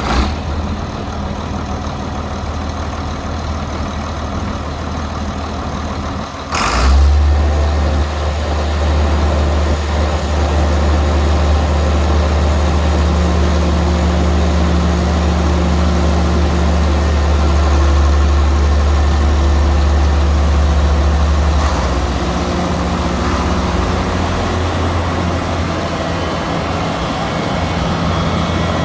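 John Deere 7700 tractor's diesel engine running just after start-up. About six seconds in a brief sharp noise is heard and the engine then runs louder and deeper, settling slightly lower again later on.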